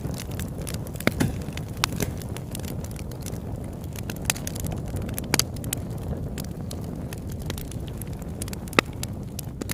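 Campfire burning with a steady low rumble and scattered sharp crackles and pops, one louder pop near the end.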